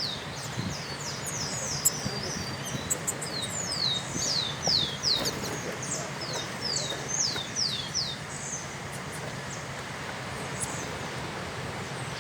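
Small birds chirping: rapid high notes, each sweeping quickly downward in pitch, several a second in runs, falling silent about eight seconds in.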